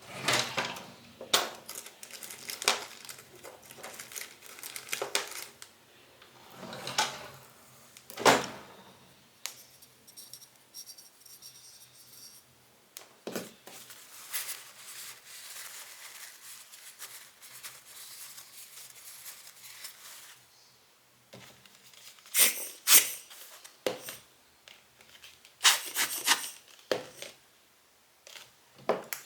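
Close-up handling noises of lens cleaning: cotton swabs rubbing and scraping on the glass, with small clicks and taps of the lens and tools being handled, and a few louder brisk rubbing strokes near the end.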